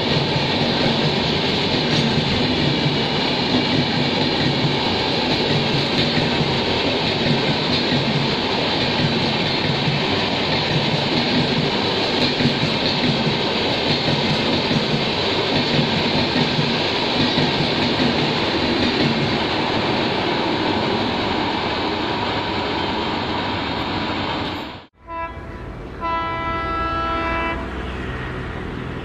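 Passenger train of LHB coaches passing at speed: a steady rush of wheel and rail noise with a regular clatter over the rail joints. After an abrupt cut a few seconds before the end, a pair of ALCO diesel locomotives sounds its horn in a run of short blasts.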